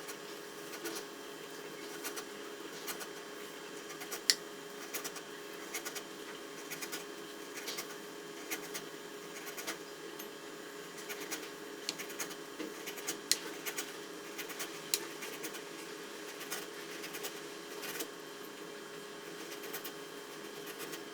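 Kitchen knife slicing thin cuts into a raw potato: short, crisp clicks at an irregular pace of about one to two a second, over a faint steady hum.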